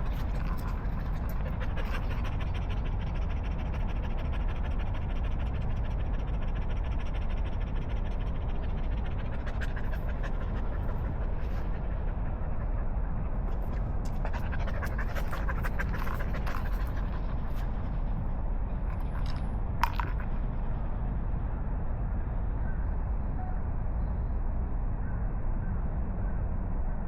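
Dog panting rapidly over a steady low background rumble, with one sharp click about two-thirds of the way through.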